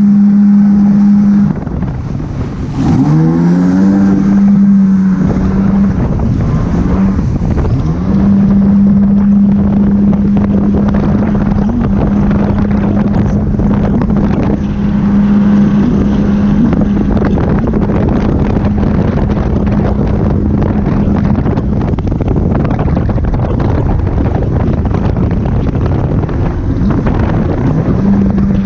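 Jet ski engine running at a steady pitch over heavy wind and water noise. A little over a second in the engine note drops away, then revs back up and settles to a steady run again; it fades under the noise late on and comes back near the end.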